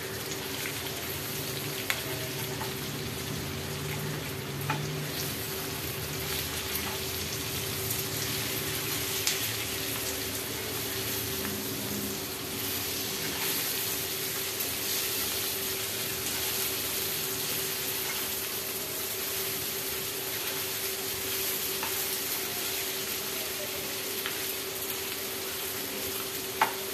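Stuffed brinjals frying in oil and masala in a nonstick kadhai, a steady sizzle while a spatula stirs them. A few light spatula taps against the pan and a steady low hum run underneath.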